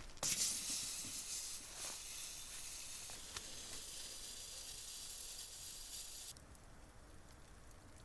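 A knock, then a steady high hiss that cuts off suddenly about six seconds in.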